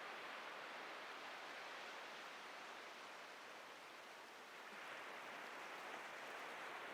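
Atlantic surf washing onto a beach as a steady hiss of water. It eases a little past the middle and swells again with the next wave.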